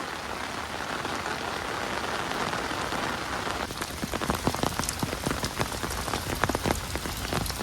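Rain falling steadily as an even hiss. About halfway through, a dense patter of close, sharp drop impacts joins it.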